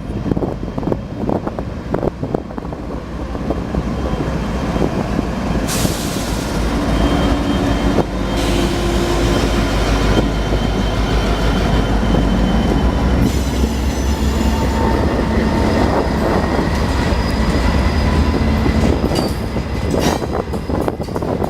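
A train rolling past close by with a heavy, steady rumble. Its wheels squeal against the rails as thin, high held tones from about a third of the way in.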